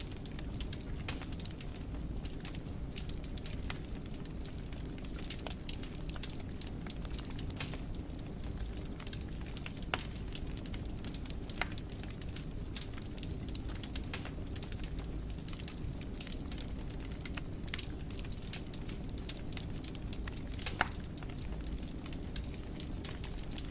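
Wood fire burning in a fireplace: a steady low rumble of flames with constant irregular crackling and occasional sharper pops.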